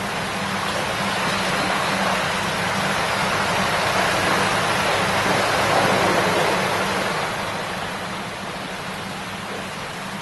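A shallow river babbling and rushing over stones in a steady wash of water sound, swelling a little in the middle and easing off near the end.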